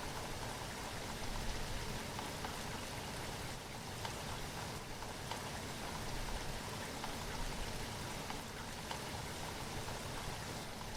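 Steady rain, with scattered drops pattering on a surface.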